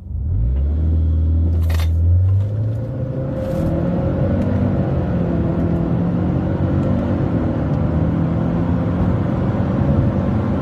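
Subaru Forester tS STI's 280 hp turbocharged flat-four at full throttle, launching from a standstill and accelerating hard, heard inside the cabin. The engine note climbs, changes at a CVT upshift about two seconds in, then climbs again.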